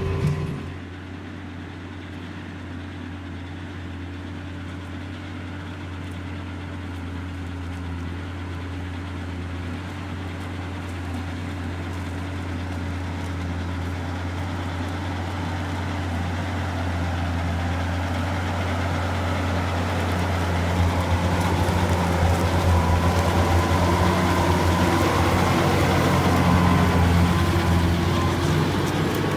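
John Deere 6140R tractor's diesel engine running steadily while ploughing, growing gradually louder over the whole stretch.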